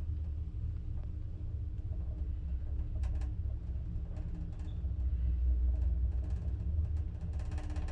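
Old Hitachi elevator car in motion, heard from inside the car: a steady low rumble with a constant hum, and a few faint clicks about three seconds in.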